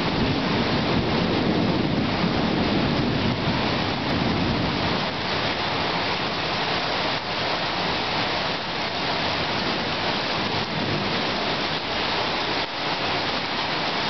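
Heavy thunderstorm rain pouring down in a steady, dense hiss. A low rumble under it in the first few seconds dies away.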